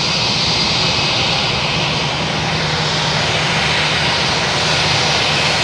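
Boeing 737-800's CFM56-7B turbofan engines running at high power: a loud, steady jet noise with a thin high whine over it, swelling slightly near the end.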